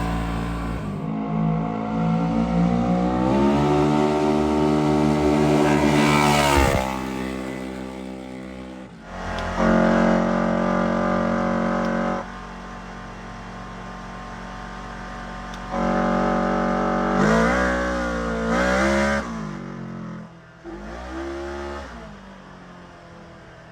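Polaris RZR XP1000 parallel-twin engine through a 2.5-inch stainless exhaust with an electronic dump valve, revving. The revs climb for several seconds and then drop off sharply. Twice they are held steady for a few seconds, there are a couple of quick rev-ups, and the engine settles lower near the end.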